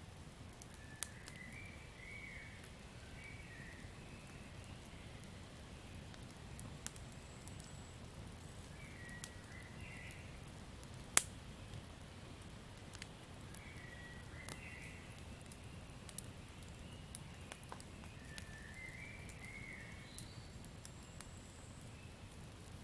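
Campfire crackling steadily, with scattered sharp pops and one louder pop about halfway through. Over it, a bird gives a short warbling call four times.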